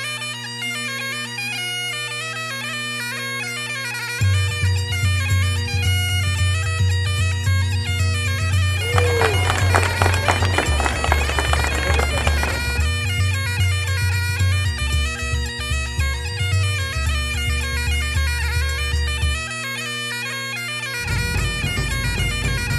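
Bagpipe music: a steady drone under a melody, with a deeper bass line entering about four seconds in and dropping out near the end.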